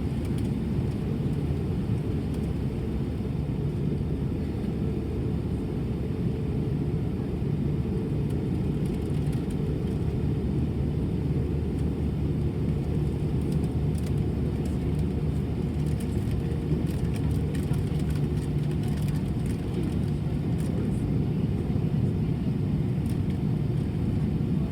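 Airbus A320 cabin noise: a steady low rumble from the jet engines and airflow, with a faint even hum underneath. A few light rattles or ticks come through about halfway.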